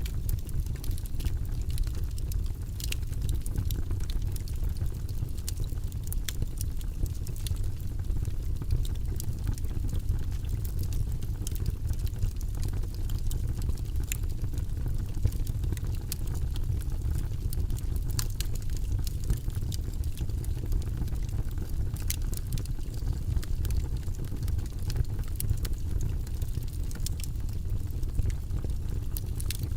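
Wood logs burning in a fireplace: a steady low rumble of the flames with frequent small crackles and pops.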